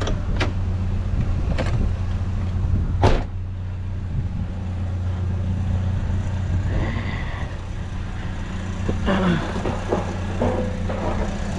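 Vehicle engine idling with a steady low hum, with a few sharp clicks early on and some clattering knocks near the end.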